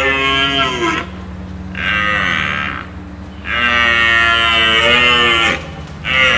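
A large animal calling four times, long drawn-out calls with a pitch that drops at their ends; the third call is the longest, about two seconds.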